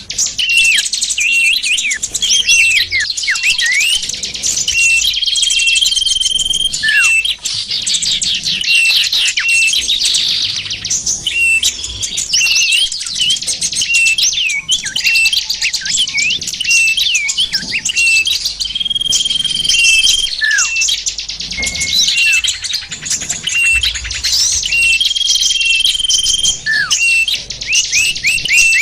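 Bird-lure recording of many small songbirds calling over one another: a dense mix of quick chirps, falling sweeps and rapid trills, with a held whistle coming back every several seconds.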